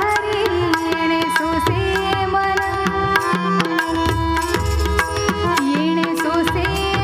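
Indian devotional abhang music: tabla strokes under a melodic line that slides between notes.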